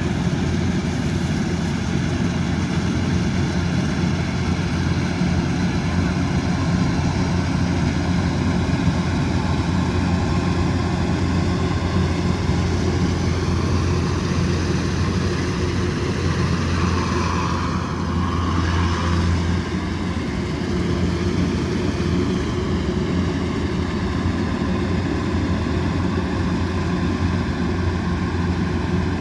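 Kubota DC108X combine harvester's diesel engine running steadily under load, a deep even drone with a brief wavering change in its higher sound about two-thirds of the way through.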